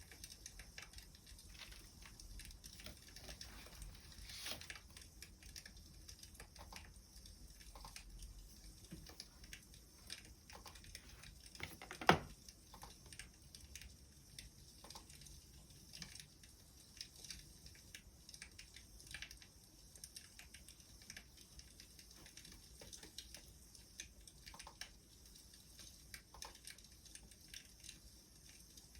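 Wood fire crackling softly, with scattered irregular pops and one sharper, louder pop about twelve seconds in.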